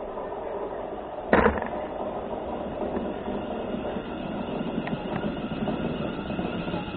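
A London Midland Class 350 Desiro electric multiple unit running into the station along the platform, with steady wheel and rail noise. One sharp thump about a second in.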